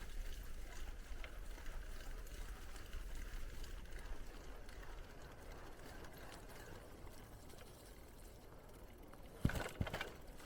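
Bicycle riding along a path: steady rolling and tyre noise with a low rumble, then two or three sharp knocks close together near the end, the loudest sound, as the bike jolts and rattles.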